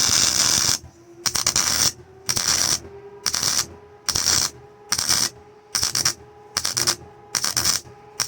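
MIG welder arc crackling in short stitch-welding bursts: one longer pass, then about nine brief bursts less than a second apart, with the machine humming steadily between them. The arc is running rough, which the welder puts down to poor-quality wire.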